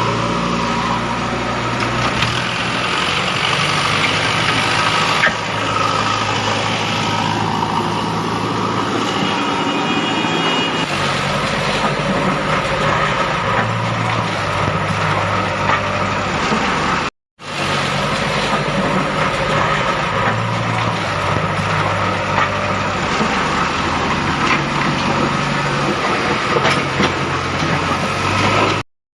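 Truck engine running steadily, with two sudden short dropouts, one a little past halfway and one at the very end.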